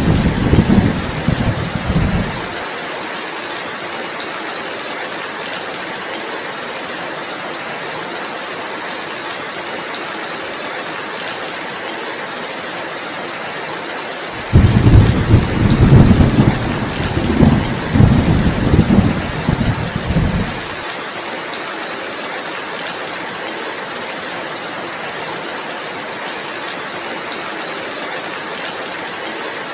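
Steady heavy rain with two deep rumbles of thunder. One dies away about two seconds in; the other starts about halfway through and rolls for about six seconds before cutting off suddenly. The thunder is the loudest sound.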